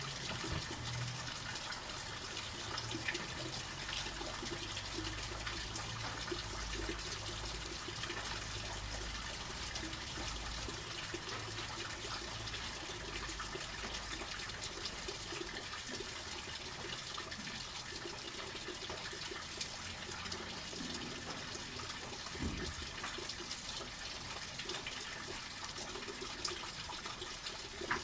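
Steady rain falling on pavement, with a stream of rainwater running off the roof and splashing down.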